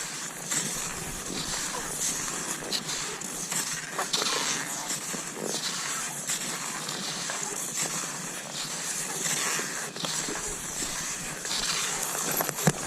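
Cross-country skis sliding and scraping over snow, in a steady hiss broken by repeated stride strokes about once a second, with a sharp click near the end.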